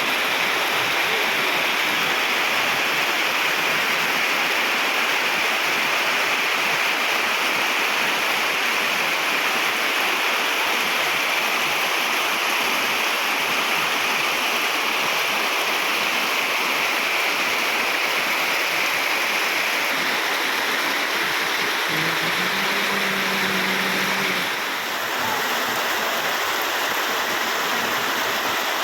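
Heavy rain falling steadily, a dense even hiss. About two-thirds of the way through, a low steady tone sounds for two to three seconds over the rain.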